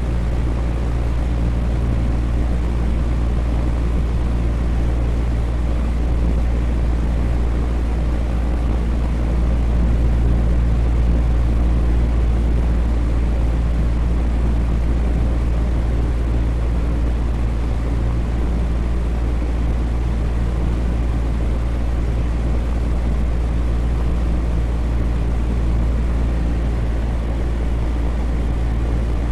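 Electric fan running steadily: a constant low hum with some steady low tones under an even whoosh of moving air.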